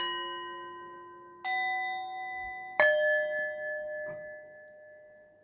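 Three struck bell tones, each at a different pitch, about a second and a half apart. Each rings on and slowly fades away.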